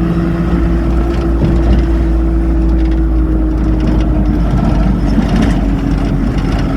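Car driving along a road: steady engine and road rumble with a constant hum that drops slightly in pitch about halfway through.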